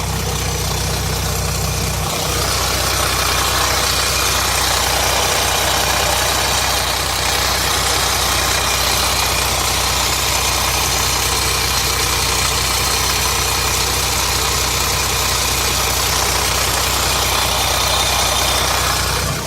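Mercedes OM642 3.0 V6 turbodiesel in a Jeep Grand Cherokee idling steadily with a rattle, heard from underneath the car, louder from about two seconds in. The owner suspects a loose oil pump chain, and the oil pressure warning comes on at idle.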